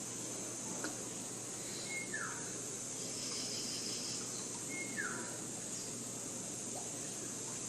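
Forest ambience: a bird repeats a call about every three seconds, a short high note followed by a quick falling whistle, over a steady high-pitched insect drone.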